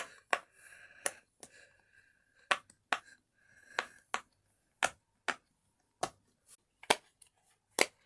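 A fidget toy clicking: about a dozen sharp clicks at irregular intervals, with a faint steady hum between some of them.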